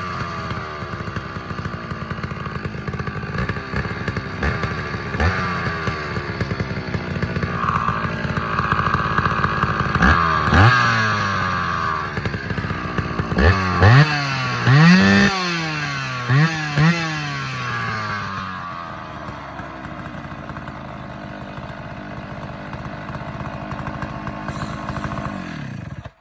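Stihl 045 Super two-stroke chainsaw with an opened-up muffler, revved in quick throttle blips that rise and fall back, several in a row near the middle. It then settles to a lower, steadier running and cuts off suddenly at the end. The carburettor has not been re-tuned since the muffler change.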